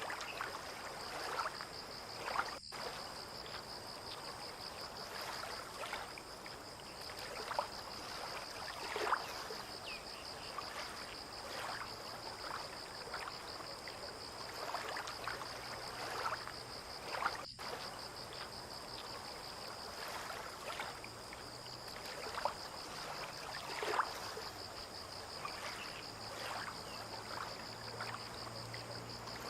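Harbour water lapping and trickling in small irregular splashes against moored boats and the quay, over a steady, finely pulsing high-pitched whine. A faint low hum comes in about halfway through.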